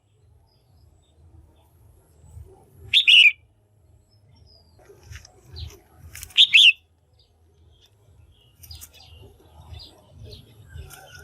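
Female red-whiskered bulbul calling: two loud, short calls about three and a half seconds apart, each dropping in pitch, with fainter chirps between. Keepers play this call to stir up a male or to pair birds.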